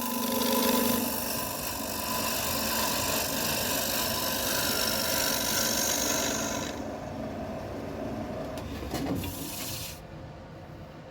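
Wood being worked on a running lathe: a steady scraping hiss that loses its sharp top edge about seven seconds in and quietens near the end.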